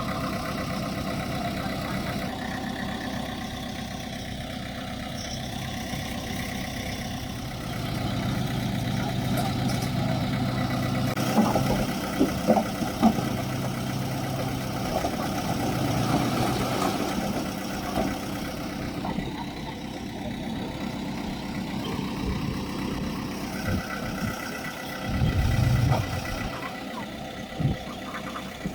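Diesel engine of heavy earthmoving machinery running steadily, with several sharp knocks about twelve seconds in and a short low surge near the end.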